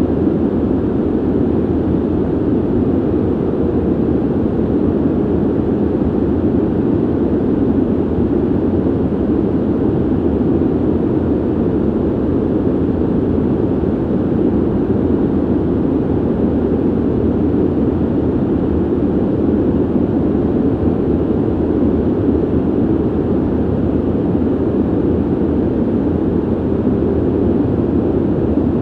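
Ventilation noise: a steady, deep rush of moving air, even and unbroken, with no tones or clicks and little hiss at the top.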